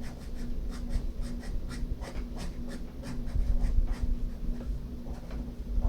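Pen scratching on paper in a quick series of short strokes, shading and roughing in lines on a drawing.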